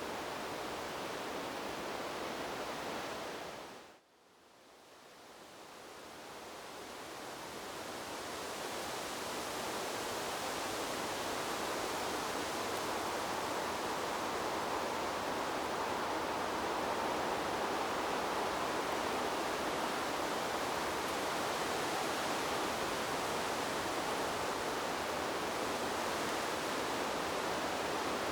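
Steady, even rushing noise of wind through trees, with no gusts or individual sounds. About four seconds in it fades out quickly almost to silence, then swells gradually back to full level over the next several seconds.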